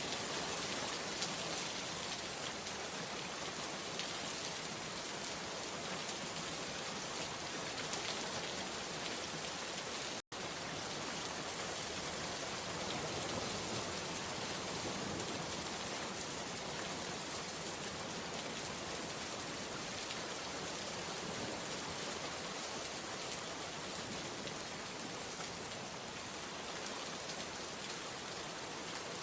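Steady rain falling, an even dense hiss, with a split-second cut to silence about ten seconds in.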